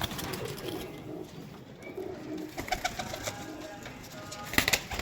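Pigeons cooing softly, with a few sharp clicks near the end.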